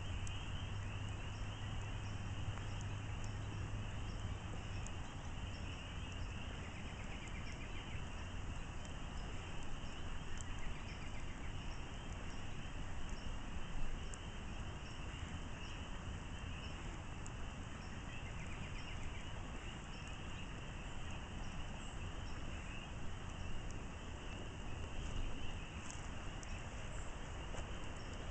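Wood campfire burning, with scattered small crackles and pops over a steady hiss. A steady high insect trill runs underneath, and a low hum fades out after the first few seconds.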